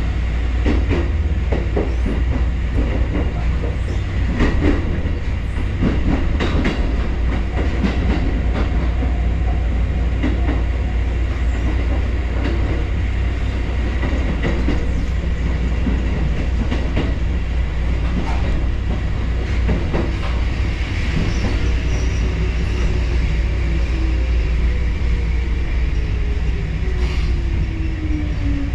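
Kotoden electric train running on the rails: a steady low rumble with clicks over the rail joints, and a whine that falls in pitch over the last several seconds as the train slows.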